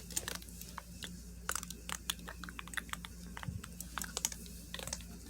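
Light, irregular clicks and taps of small plastic toy parts being handled, over a steady low hum.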